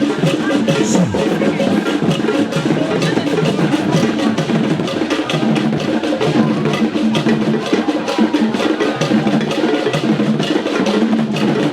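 A drum ensemble playing fast, dense percussion music with closely spaced strokes, loud and unbroken throughout.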